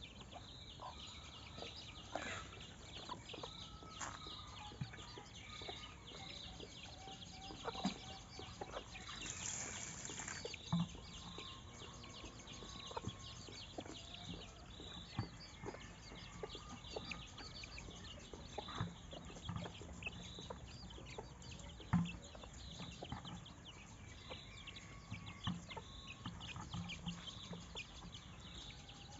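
Chickens clucking now and then, among scattered short calls from other birds and a repeated high chirp about once a second.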